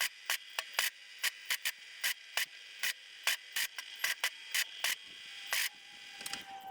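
MIG welder laying a quick series of short spot welds on a steel clutch plate, each a brief crackle of the arc, about three a second, with a slightly longer one near the end. The welds build up small grip points on a worn, slipping ride-on mower PTO clutch.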